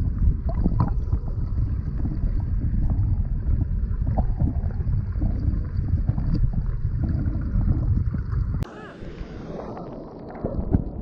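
Heavy low wind rumble buffeting the microphone of a moving car, which cuts off abruptly about eight and a half seconds in, leaving a quieter background noise.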